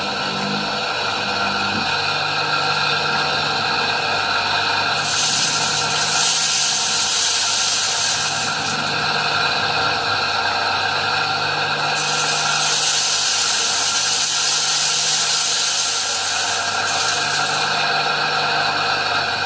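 Homemade rice flour mill, a washing-machine motor spinning a cutting blade, running with a steady whine. Stretches of added hissing noise come and go, starting about five seconds in, again around twelve seconds and near the end.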